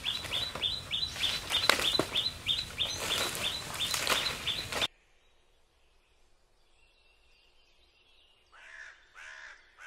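A bird calling in a rapid run of short, high chirps, about four a second, over rustling and light knocks; it all cuts off abruptly about halfway. Near the end a crow caws three times.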